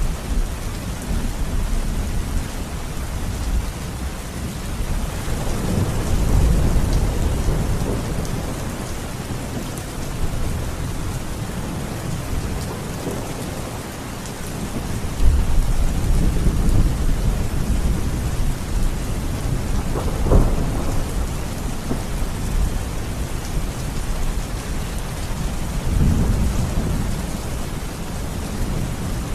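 Steady rain falling, with low rolling thunder rumbling under it that swells and fades several times, and a sharper thunderclap about two-thirds of the way through.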